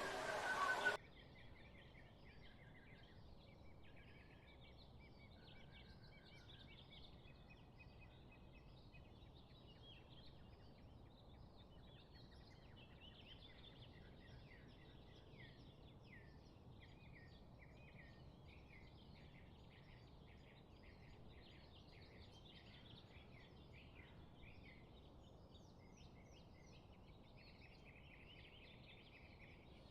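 Faint chorus of many small songbirds chirping and trilling, with rapid runs of short high notes, over a steady low hiss. A louder pitched sound cuts off abruptly about a second in.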